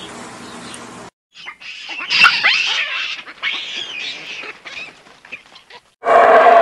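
Animal calls: a run of irregular, high-pitched cries with quick pitch sweeps, between abrupt cuts. A louder, denser sound starts suddenly near the end.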